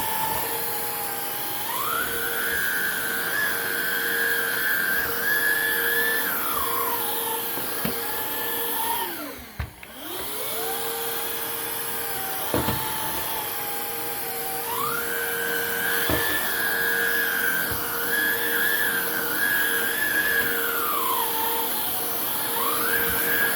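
Hoover React cordless upright vacuum cleaner running, a steady motor whine. Its pitch steps up and back down twice as the power changes. About ten seconds in it briefly dies away and spins back up.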